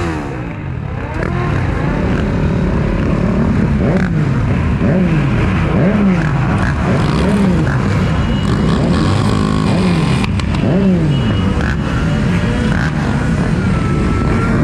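Several motorcycle engines revving over and over, their pitch rising and falling about once a second, with more engines running underneath.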